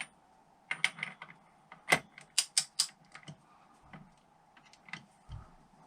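Ratchet torque wrench clicking in several quick runs of sharp metallic clicks while tightening a nut, with a low thump near the end.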